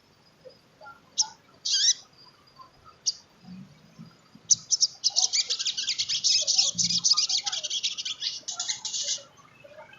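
Sogon trotol sunbird singing: a few short, high calls, then a fast, high-pitched twittering run lasting about four seconds.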